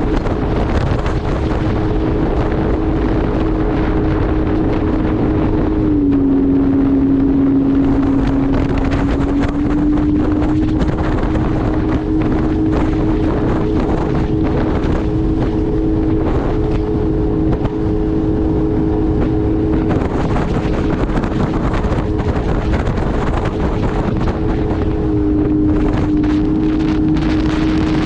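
Jet ski engine running steadily at speed, its pitch dropping about six seconds in and rising back a few seconds later, then dipping slightly again near the end. Wind buffets the microphone.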